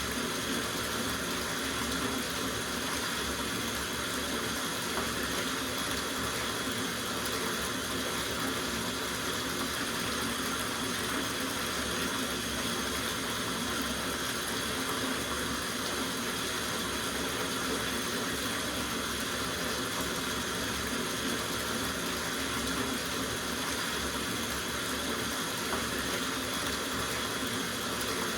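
Water running from the tap into a soaking bathtub, with a steady, even rush that does not change.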